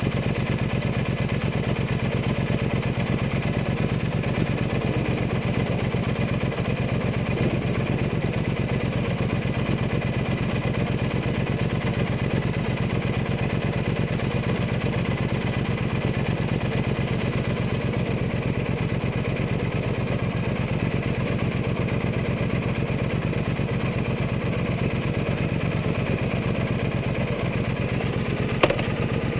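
Exhaust of a Triumph Bonneville T120's 1200 cc parallel twin through an aftermarket Zard exhaust, running steadily at an even engine speed with no revving. There is a sharp click near the end.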